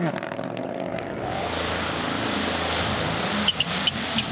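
An engine droning steadily under a rushing noise, with a few sharp ticks near the end.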